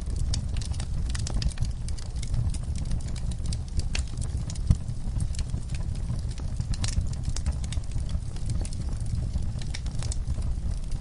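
Wood fire crackling, with many sharp, irregular pops over a steady low rumble; one pop a little under five seconds in is louder than the rest.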